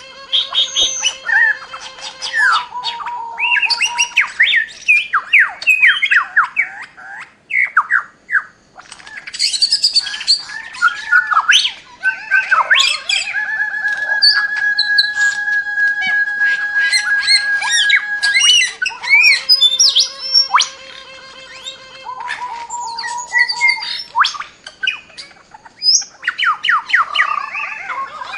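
Birds calling: a busy mix of squawks, quick chirps and sweeping whistles, with a few long, steady whistled tones held for several seconds.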